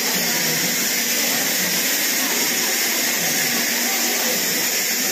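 Steady, even hiss from an Indian Railways AC passenger coach rolling slowly along a platform, with faint voices underneath.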